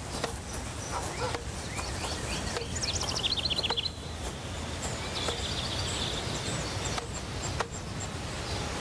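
Outdoor ambience with birds chirping: a rapid trill of short falling chirps about three seconds in and a few more calls later, over a steady low rumble.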